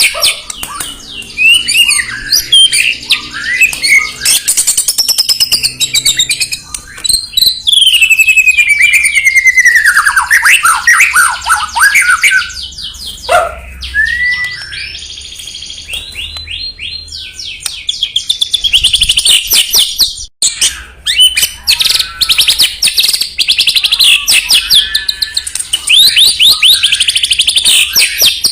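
White-rumped shama (murai batu) singing loudly and without pause. Its varied song of whistled glides rising and falling, rapid trills and fast rattling runs of repeated notes is the combative song that keepers play to provoke a caged shama.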